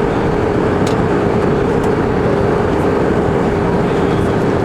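Airbus A319 cabin noise in flight: a steady rush of engine and airflow noise with a constant hum.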